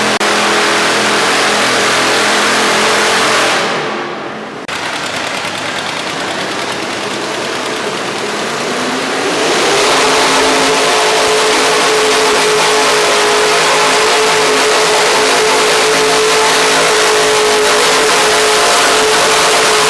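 V8 minirod pulling tractor's engine running hard at high revs, dropping off about four seconds in. It then revs back up with a rising pitch around nine seconds in and holds steady at high revs.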